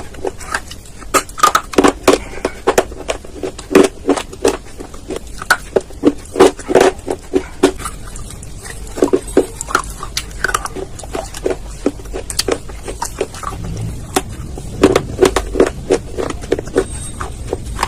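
Close-miked biting and chewing of hard baked clay pieces: sharp, irregular crunches in quick clusters, with a quieter stretch of softer chewing past the middle.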